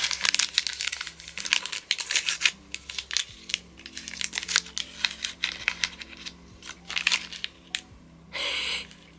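Packaging from an advent calendar being handled and opened, crinkling and crackling in irregular bursts, with a longer tearing rip about eight seconds in.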